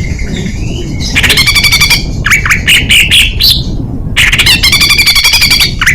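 Songbird singing in dense, harsh rapid-fire phrases (the 'tembakan rapat dan kasar' prized in bird-song training recordings): two fast rattling trills of many quickly repeated notes, separated by a run of sharp down-slurred calls.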